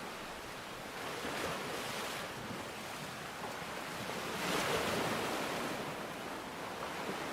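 Steady rushing water noise, swelling briefly about a second in and more strongly about four and a half seconds in.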